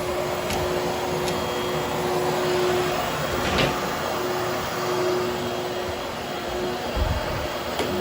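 Hoover Hushtone upright vacuum running steadily while grooming a damp, freshly cleaned nylon carpet: an even rushing noise with a low motor hum and a few light clicks.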